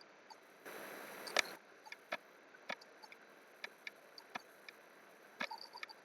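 Sparse, irregular clicks of computer keys and mouse buttons, about one every half second. There is a short burst of noise with a louder click about a second in.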